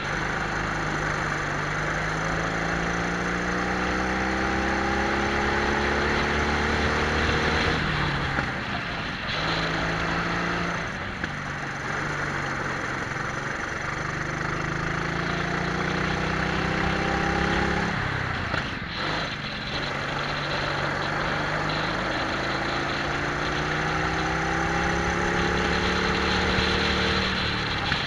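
Twin-engine Prokart's two-stroke engines running at full throttle, the engine note rising steadily through three long accelerations and dropping sharply at about 8 s, 18 s and near the end as it comes off the throttle.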